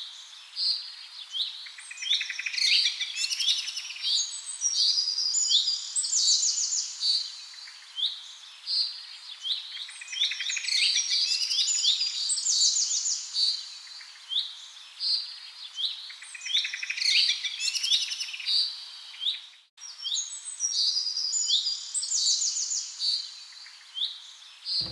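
Birds chirping and singing, many short high calls and trills in quick succession, with a brief break about twenty seconds in.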